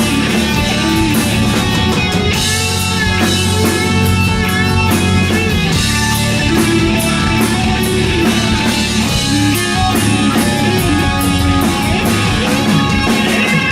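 Hard rock band playing live: electric guitar over a drum kit at full volume.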